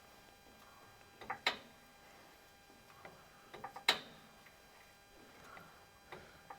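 Floor jack being jacked up under a pickup truck, giving short sharp metallic clicks in small clusters about every two and a half seconds.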